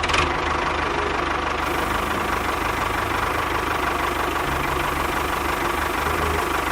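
Mini tractor's engine running steadily at idle, with a constant whine over a low rapid pulsing.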